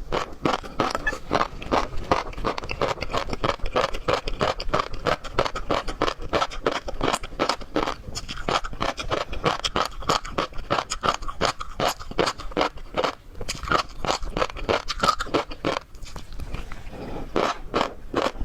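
Close-miked eating of seafood: chewing, with a dense run of wet clicks and crunches.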